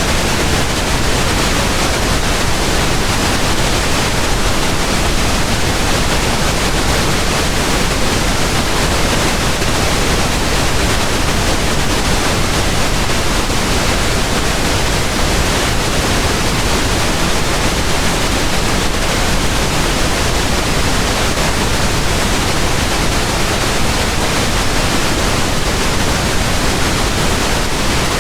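Steady pink noise: an even, unchanging hiss spread across the whole range, deeper and softer-sounding than white noise.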